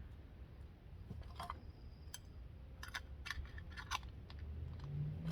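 Freshly made glitter slime being handled and pressed into a small plastic container: a handful of short, sticky clicks and snaps, scattered irregularly over a few seconds.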